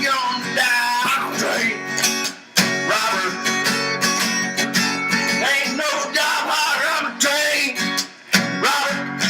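Acoustic guitar music: chords strummed in a steady rhythm, with pitch-bending melodic lines above them, and two brief drops in level.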